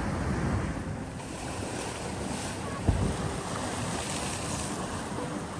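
Sea waves washing against a rocky shore, with wind buffeting the microphone. A single brief thump comes about three seconds in.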